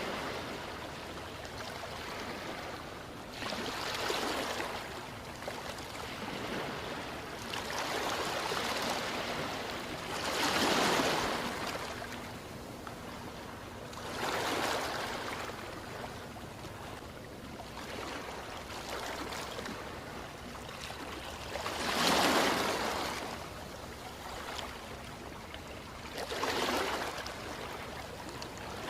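Ocean waves washing onto a shore: a steady hiss of water swelling up and falling back every few seconds, about eight swells in all.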